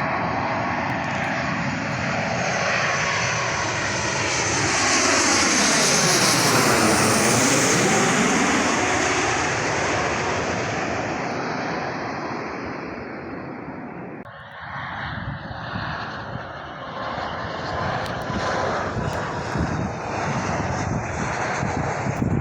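Low-flying airplane passing overhead: its engine noise swells to its loudest about seven seconds in, with a sweeping, phasing change in pitch as it goes over, then fades. About fourteen seconds in, the sound changes abruptly to a rougher, uneven rumble.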